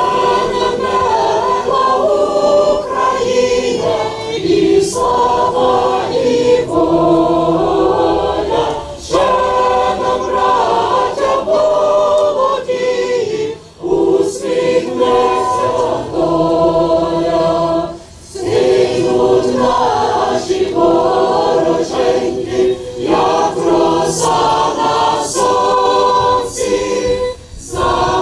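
Many voices singing a national anthem together in long held phrases, pausing briefly between lines.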